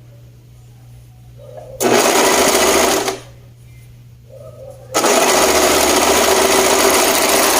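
Sewing machine stitching a seam in two runs: a short run of about a second, then after a pause a longer steady run starting about five seconds in.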